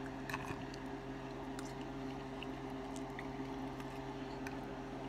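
A person chewing a mouthful of food, with a few faint clicks, over a steady low hum.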